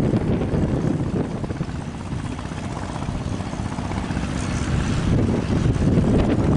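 Fishing boat engine running with a steady low rumble, with strong wind buffeting the microphone.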